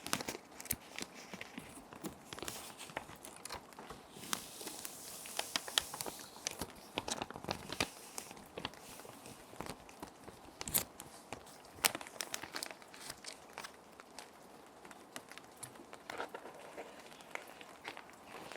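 Plastic sheet protectors crinkling and crackling as paper sheets are slid into them, in irregular sharp crackles. A steady bed of gentle rain sound runs underneath.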